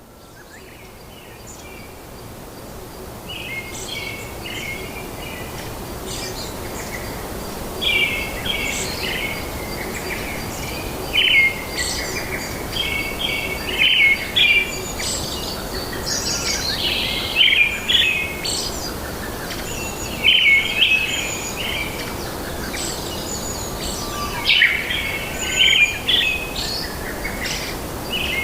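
Small birds chirping in many short, repeated phrases over a steady background hiss, fading in over the first few seconds.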